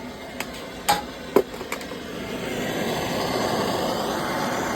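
A gas torch's igniter clicks several times, then the flame catches about two seconds in and burns with a steady, growing hiss.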